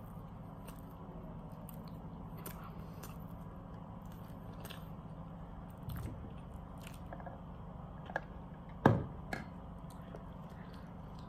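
Close-up chewing and biting on a mouthful of KFC Zinger burger, a crispy fried-chicken sandwich, with small wet clicks and crunches over a steady low hum. A sharp thump about three-quarters of the way through is the loudest sound.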